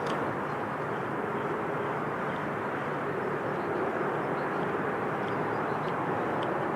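Steady outdoor rumble with no breaks, with a few faint high ticks over it.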